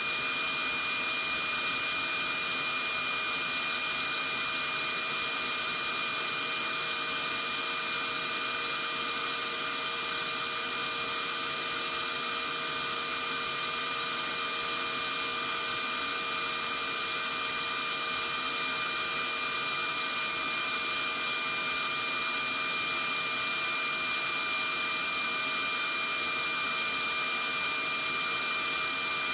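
Vacuum cleaner running steadily: an even hiss with a few steady whining tones over it, never changing in speed.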